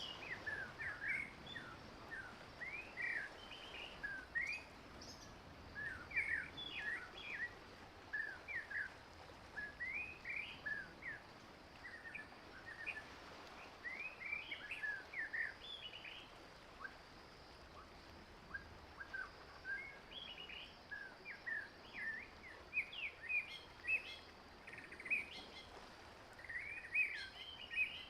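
Small wild birds chirping and singing: short, high, quick notes in clusters every second or two, over a faint steady hiss.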